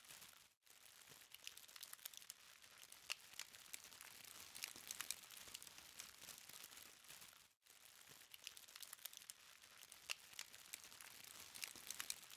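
Charcoal fire crackling softly: many small sharp ticks and pops over a faint steady hiss. The sound cuts out briefly twice.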